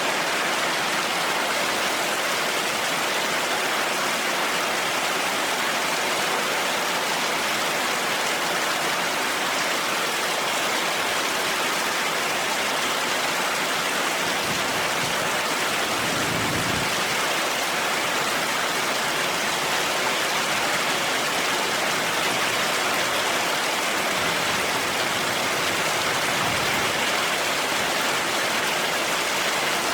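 Heavy rain falling steadily, an even hiss with no break. A brief low rumble swells in about halfway through, and a fainter one comes near the end.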